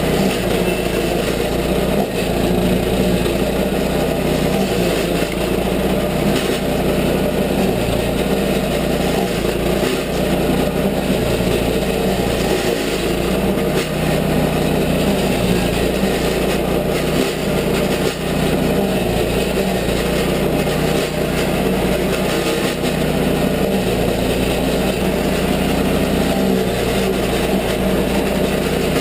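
Toro stump grinder's gasoline engine running steadily under load as its cutter wheel grinds into an apple tree stump, with an even noise of wood being chewed away over the engine.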